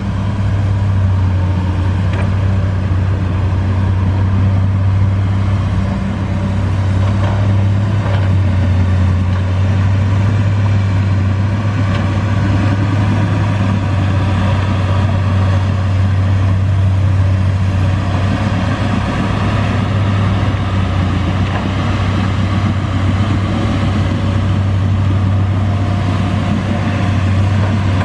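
Komatsu excavator's diesel engine running steadily, with a strong, constant low hum.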